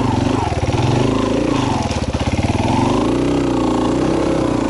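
Off-road motorcycle engine running under throttle, its pitch rising and falling with the revs.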